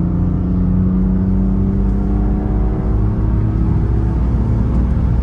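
BMW E36 M3's S50 straight-six pulling under way, heard from inside the cabin: a steady engine note over low road rumble. The engine note drops away about four seconds in, leaving the rumble.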